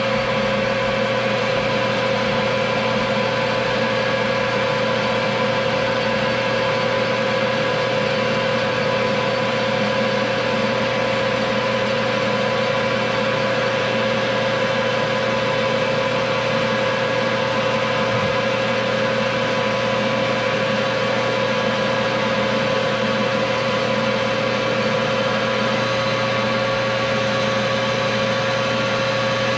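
Metal lathe running steadily, a constant hum with a mid-pitched whine, as a diameter is turned down to size.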